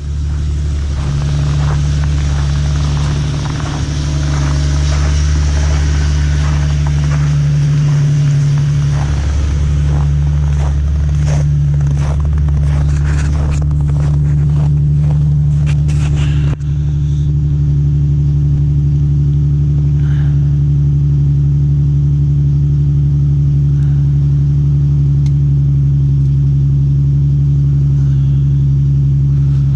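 2010 Infiniti G37x's 3.7-litre V6 idling steadily through an HKS aftermarket exhaust, shortly after a cold start at minus 33 °C. A brief knock about halfway through.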